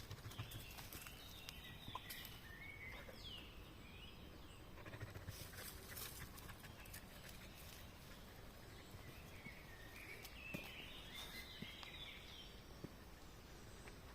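Faint bird chirps over quiet outdoor ambience, in two clusters of twittering calls with a few scattered clicks.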